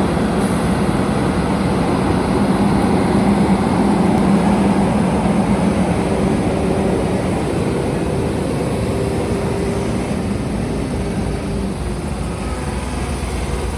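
Heavy truck diesel engines running steadily with a low hum, easing off slightly toward the end.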